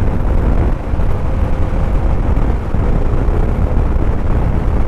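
Suzuki motorcycle riding at a steady speed: loud, steady low rumble of wind buffeting the microphone over the engine's even drone.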